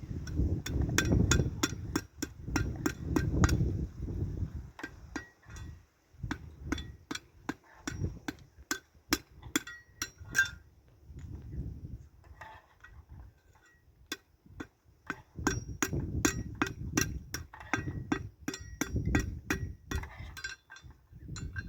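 Repeated sharp knocks of something being struck, about two to three a second, pausing briefly twice along the way.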